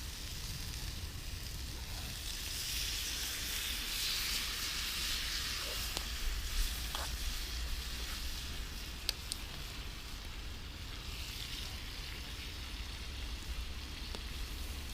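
Marinated fillet steak sizzling directly on hot campfire coals: a steady hiss that swells for a few seconds, with a few sharp ticks.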